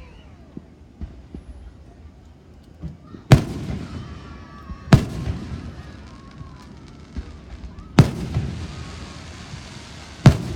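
Fireworks display: four loud booms, about two to three seconds apart, with smaller pops between them. The last boom comes near the end.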